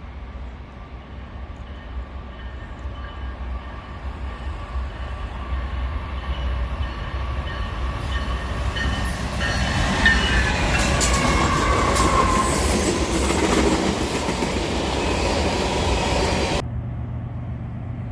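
A train rolling past at close range: the rumble and rail noise build steadily, then stay loud with high squealing tones from the wheels and rails. The sound cuts off abruptly near the end.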